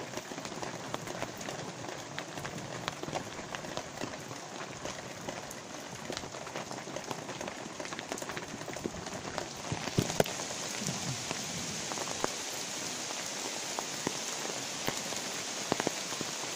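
Light rain falling, a steady patter of many small drops; about ten seconds in it grows a little louder and hissier.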